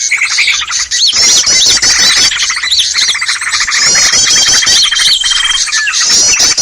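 Bird-lure recording of many small birds calling at once: a loud, dense chorus of chirps, squawks and high trills, with a steady high trill coming in about four seconds in.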